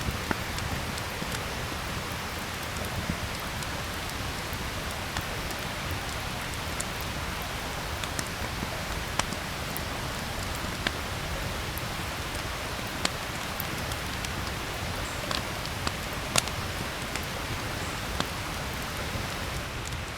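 Steady rain falling, with scattered sharper drop ticks over an even hiss.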